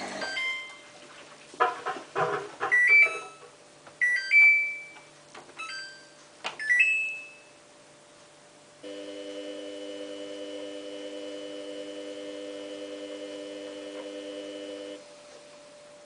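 Samsung WF8804RPA washing machine's control panel beeping and chirping several times as its buttons are pressed, some chirps rising in pitch. About nine seconds in, the machine starts a steady hum that holds for about six seconds and then stops abruptly.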